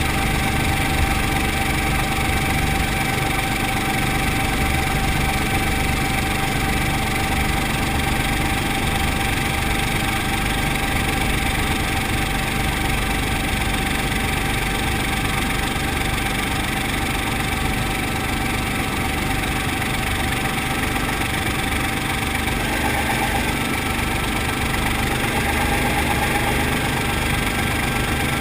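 Brantly B-2B helicopter's piston engine and rotor running steadily, with a constant drone and several steady tones. The tones shift slightly about two-thirds of the way through.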